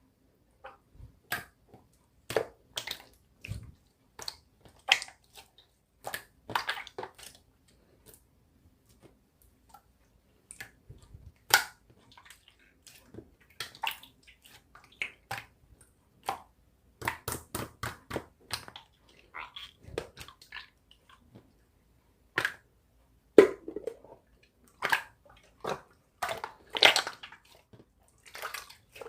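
Slime being squished and pressed by hand: irregular sticky pops, clicks and crackles, some in quick clusters.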